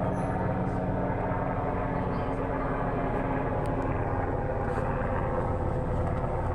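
Airplane flying by, a steady engine drone.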